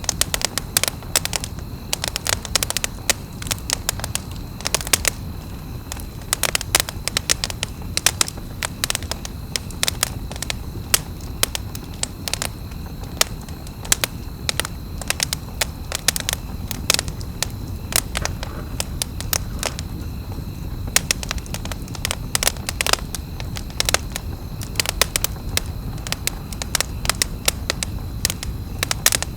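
Campfire crackling: many sharp, irregular pops and snaps over a steady low rumble.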